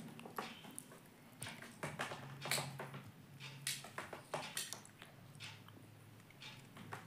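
Indian ringneck parrot tapping and scraping its beak at a mirror: irregular short clicks and scratches, a few a second, with no calls.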